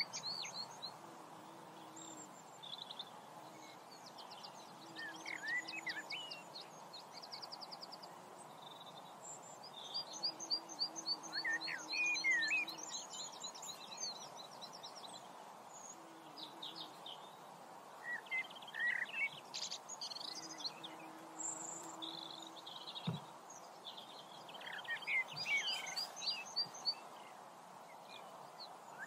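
Several birds calling and singing over a steady background hiss: short chirps, quick rising and falling whistles and rapid trills every few seconds, with the busiest calling around ten to fourteen seconds in and again near the end.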